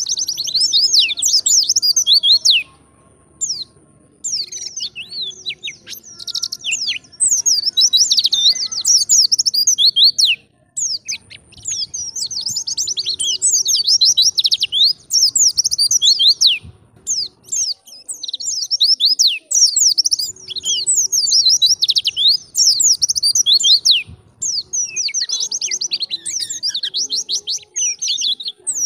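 White-eye (pleci) singing in the wild 'ngalas' style: fast, high twittering phrases of quick chirps, with a short pause about three seconds in.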